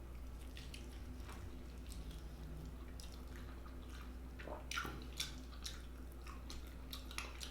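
Close-up eating sounds of a bite of baked chicken in buffalo sauce: wet chewing, lip smacks and scattered sticky clicks, over a low steady hum.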